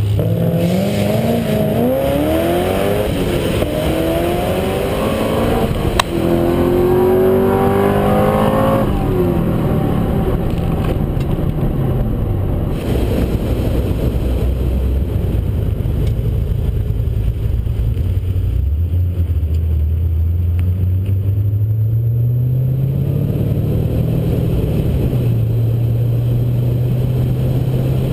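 2010 Chevrolet Camaro engine at wide-open throttle down a drag strip, its pitch climbing and dropping back at each of several upshifts. About nine seconds in the throttle is lifted at the end of the run, and the engine settles to a low, steady note as the car coasts and cruises back along the return road.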